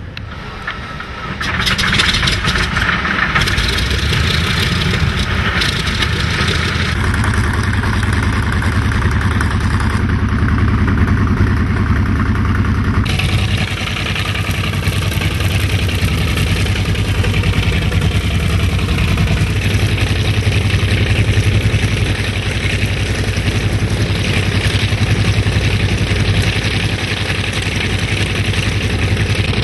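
Piston aircraft engine running close by with a steady low beat. It comes in loud about a second and a half in, and the sound changes abruptly around the middle.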